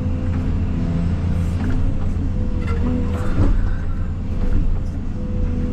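Case CX220E excavator's diesel engine running steadily under working load, with a steady tone over the rumble and a few short knocks about halfway through as it works a stump.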